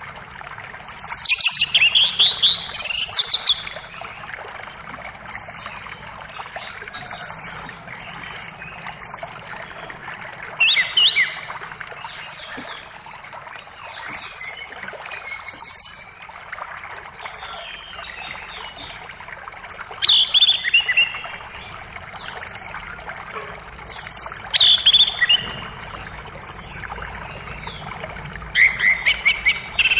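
Songbirds chirping over the steady rush of a forest creek. Short high chirps repeat every second or two, and a few times a louder call sweeps down in pitch.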